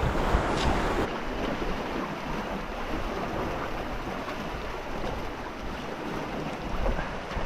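Steady wind and water noise, with a louder rush in the first second before it settles to a duller, even wash.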